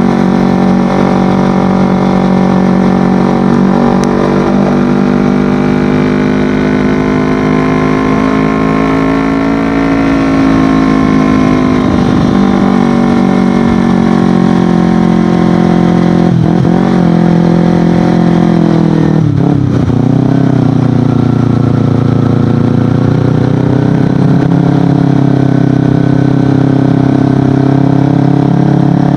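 Kawasaki Ninja 250FI parallel-twin engine running through an Akrapovic exhaust while the bike is ridden. The pitch rises and falls with the throttle, and there are a few quick dips and recoveries about halfway through.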